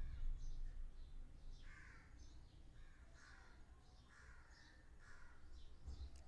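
Faint bird calls repeated about six times in a row through the middle, over a steady low background hum.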